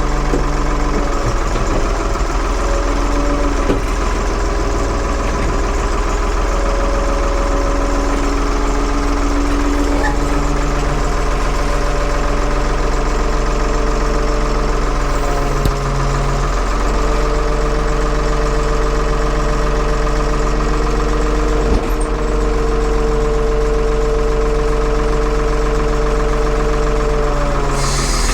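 1975 Ford 550 backhoe's engine running steadily, its speed shifting up and down a few times as the machine is operated.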